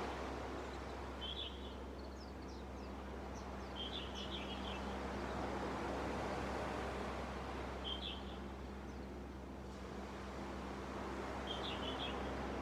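Small waves washing onto the beach, swelling and easing over several seconds, with a bird giving four short bursts of high chirps a few seconds apart.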